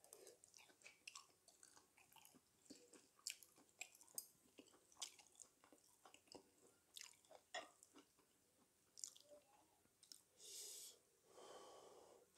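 Close-miked chewing of a mouthful of dak galbi: many small wet mouth clicks and smacks. A little before the end come two breathy swells, a breath in and out.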